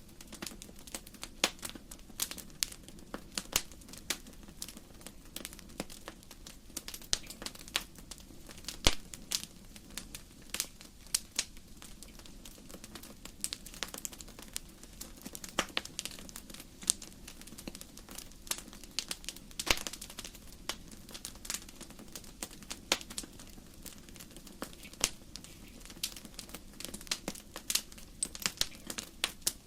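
Firewood burning in a fireplace, crackling: irregular sharp pops and snaps, several a second, over a soft low rumble of the fire.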